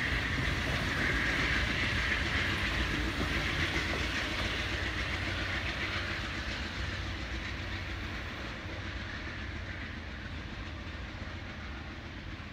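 Amtrak bilevel passenger train passing on the rails and pulling away, its wheel-and-rail noise fading steadily as the last car recedes.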